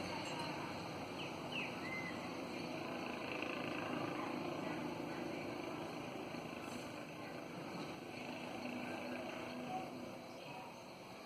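Steady outdoor background noise with a few faint short chirps a second or two in.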